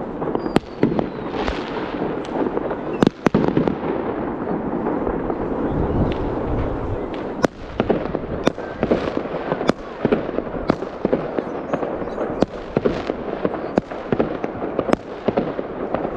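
New Year fireworks going off: a rapid, irregular string of sharp bangs, a dozen or more, over a continuous din of further fireworks.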